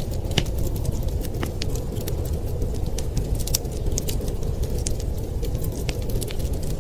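Wood fire crackling, with scattered sharp pops and snaps, over a steady low rush of wind.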